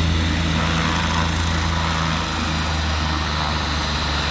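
Helicopter close by, its rotor and engine running loud and steady with a fast, even beat from the blades. The pitch drops slightly about halfway through.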